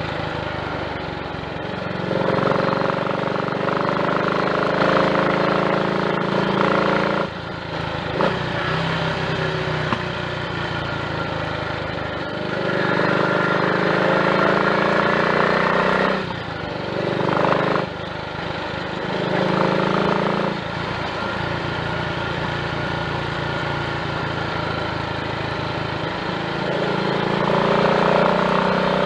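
Triumph Tiger Cub's small single-cylinder four-stroke engine running under way, its note dipping and climbing again several times as the throttle is eased and reopened. It runs without misfiring on a carburettor fitted with a new slide, needle and jets.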